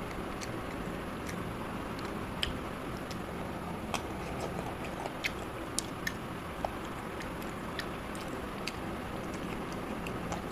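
A person chewing chicken curry and eating with his fingers, with scattered sharp mouth and lip clicks over a steady background noise.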